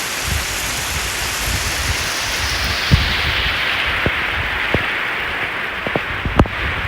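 Steady rush of falling water from a waterfall, with a low rumble underneath. A few sharp knocks sound in the second half.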